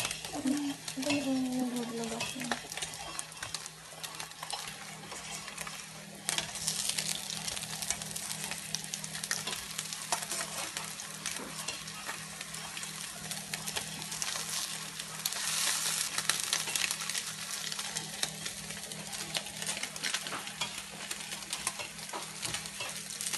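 Slices of Spam frying in oil in a non-stick pan, sizzling and crackling steadily, louder from about six seconds in, with occasional small clicks.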